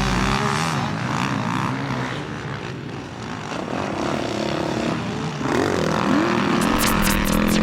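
Motocross bike engines running and revving, their pitch wavering and rising in a rev about six seconds in, with sharp ticks starting near the end.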